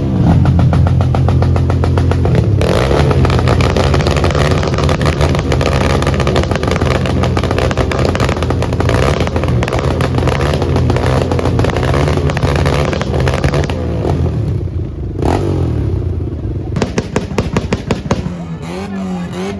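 Loud car engine running and being revved, its pitch rising and falling; it eases off near the end.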